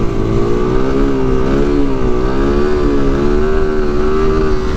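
Small motorcycle engine running at steady, fairly high revs, its pitch gently rising and dipping as the throttle is held.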